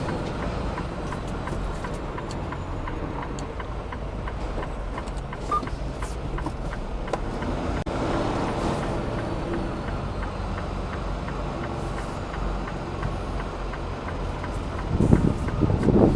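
Semi truck's diesel engine running steadily as the rig maneuvers at low speed, with scattered faint clicks, growing louder near the end.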